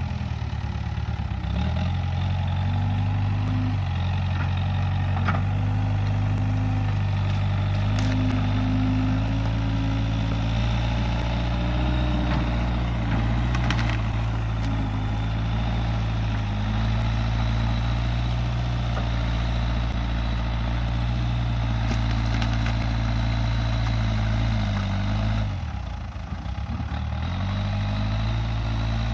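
Case 580G backhoe loader's diesel engine running steadily, with the engine note dipping briefly near the end and a few faint clicks.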